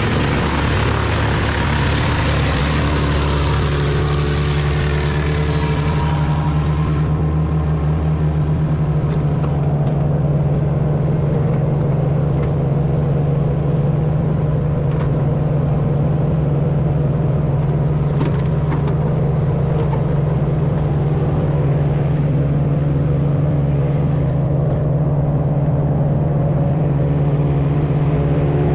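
Large wood chipper's engine running steadily under load. A loud rushing, hissing noise sits on top of it for about the first seven seconds, then drops away, leaving the steady engine hum.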